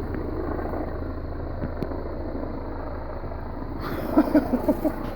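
Helicopter hovering overhead, a steady rotor and engine drone. Near the end comes a short run of brief pitched sounds.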